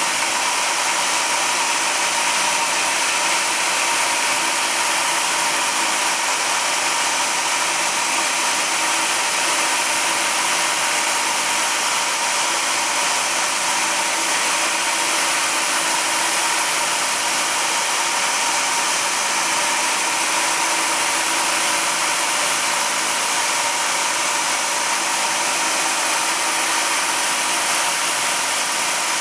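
A shop machine or power tool running steadily with a constant whine and hiss, no changes in level.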